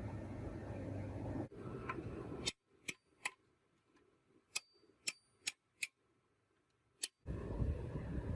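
A steady rumble that cuts off about two and a half seconds in. Then near silence broken by about seven sharp, short clicks or light taps at uneven intervals, before the rumble starts again near the end.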